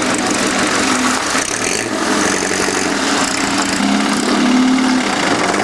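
A classic car's engine running steadily.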